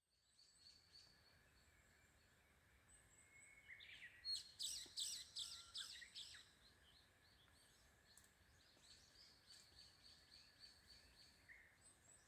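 Faint birdsong from wild birds: scattered high chirps and whistles, with a busy run of quick calls about four to six seconds in, over a quiet background hiss.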